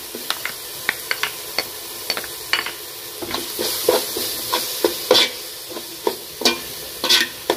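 Chopped onions and tomatoes with freshly added ginger-garlic paste sizzling in hot oil in a metal pot, while a spatula stirs them and scrapes against the pot bottom in short, irregular strokes. The sizzle swells briefly about halfway through.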